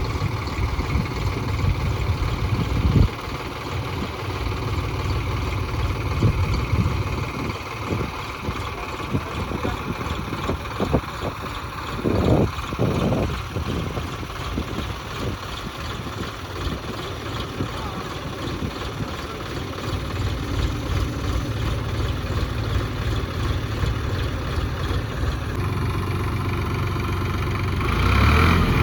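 Diesel tractor engine running steadily, with a few short knocks and thumps along the way; the engine grows louder near the end.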